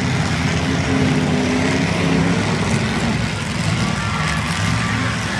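Several demolition derby cars' engines running and revving, a steady low rumble whose pitch rises and falls.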